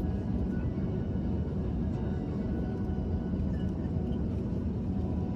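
Steady low rumble of jet airliner cabin noise, engines at idle thrust while taxiing, with a faint steady whine above it.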